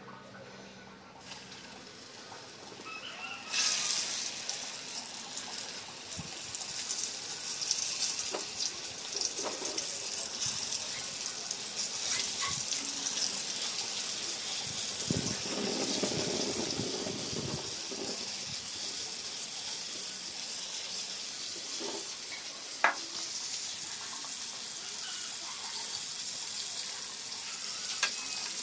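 Flour-coated chicken pieces frying in hot oil in a wok. The oil bursts into a sizzle about three and a half seconds in as the first pieces go in, then keeps up a steady hiss, with a few light clicks.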